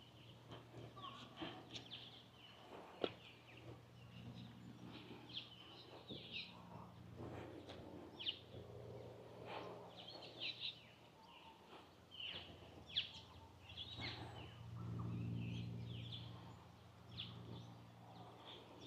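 Faint outdoor ambience of birds calling: many short, high chirps and quick downward-sweeping calls over a low steady hum, which swells briefly about fifteen seconds in.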